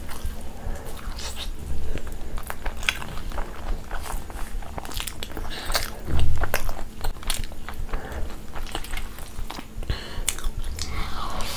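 Close-miked eating sounds: a person biting and chewing a spicy chicken wing, with many short, sharp mouth clicks and smacks. There is a louder, low thud about six seconds in.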